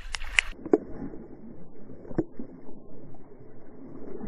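Swimming-pool water heard with the microphone submerged: about half a second in, the high sounds drop out at once, leaving a dull, muffled wash of moving water with a couple of knocks.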